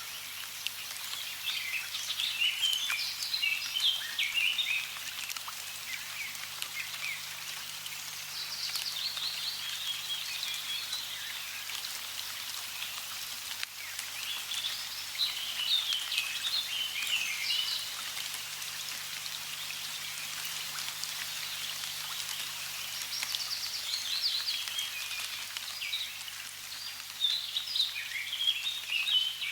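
Steady hiss of running water, with birds chirping in several bouts of quick high calls over it.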